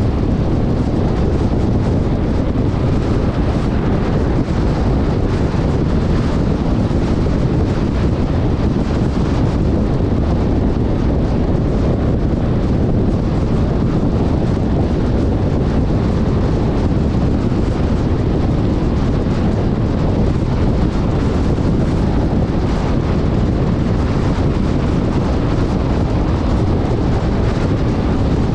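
Wind buffeting an action camera's microphone on a moving off-road vehicle: a steady, loud rumble with no clear engine note.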